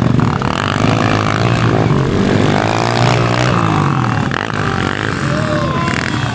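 Several motorcycle engines revving up and down at once, their pitches rising and falling across each other.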